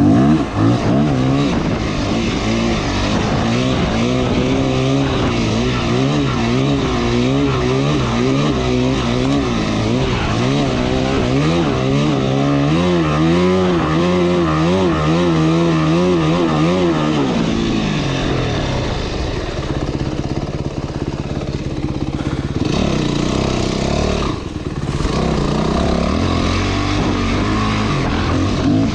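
Motorcycle engine running, its revs rising and falling in quick waves for about the first half, then a rougher, noisier engine sound with no clear pitch.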